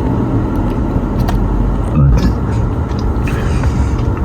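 Steady low rumble inside a car cabin, with a few light clicks from the controls and a brief louder swell about halfway through.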